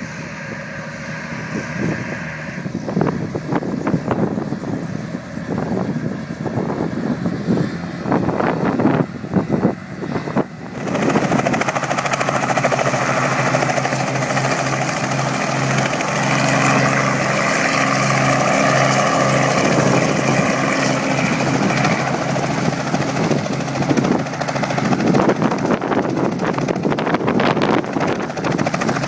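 Helicopter rotor and engine running, with gusts of wind on the microphone at first; about ten seconds in the helicopter sound rises suddenly and then holds loud and steady.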